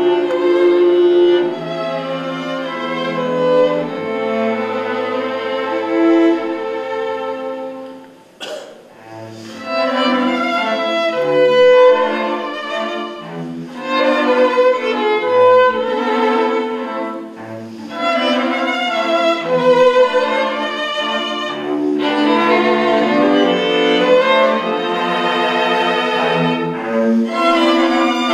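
Bowed string music, violin with cello, playing a slow melody of long notes with vibrato. The music drops away briefly about eight seconds in, with a single click, then resumes.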